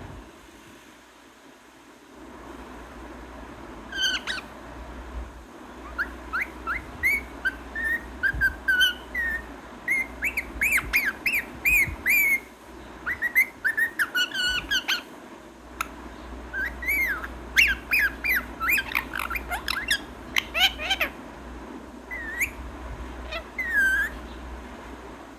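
A pet parrot calling in quick runs of short squawks and whistles, with pauses between the runs, over a steady low background hum.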